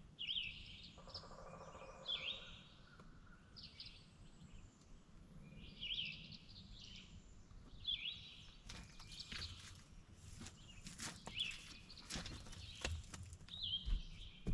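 A bird calling over and over, a short sharp call about every two seconds, over faint outdoor background noise. From about halfway through, scattered clicks and knocks join in.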